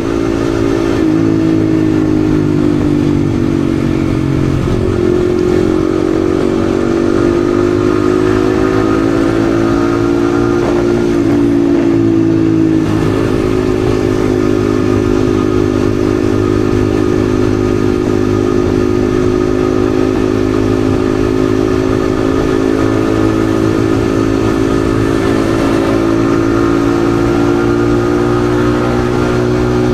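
Yamaha XSR155 single-cylinder engine running at steady riding speed, its pitch drifting gently up and down with the throttle.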